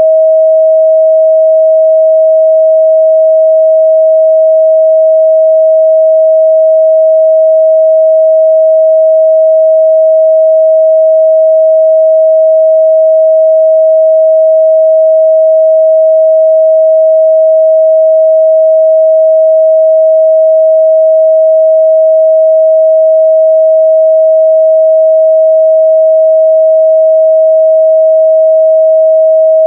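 A steady, unbroken 637 Hz sine-wave test tone, a single pure pitch held at constant loudness.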